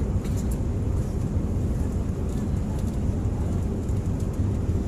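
Steady low rumble of an airliner's cabin noise: engine and airflow drone heard from inside the passenger cabin, with a few faint clicks near the start.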